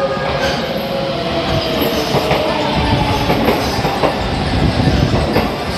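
JR West 281 series Haruka limited express electric train, a short set running out of service, rolling slowly along the platform with rumbling wheels and clacks over the rail joints.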